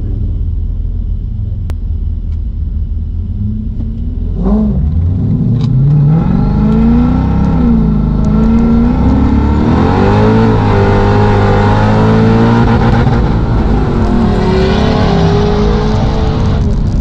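Mercedes-Benz CLK55 AMG's 5.4-litre V8, heard from inside the cabin. It runs steadily at first, blips once about four seconds in, then is put to full throttle, its pitch climbing and dropping back several times as it shifts up through the gears.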